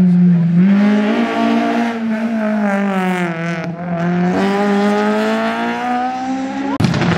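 Rally car's engine driven hard through a tight cone-marked turn, its note sagging and climbing again as the throttle is worked. It breaks off abruptly near the end into a different engine sound.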